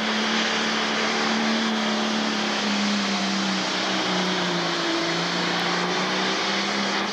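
Pro stock pulling tractor's turbocharged diesel engine running flat out under load during a pull, a steady loud drone whose pitch sags a little midway. The engine sound falls away sharply at the very end.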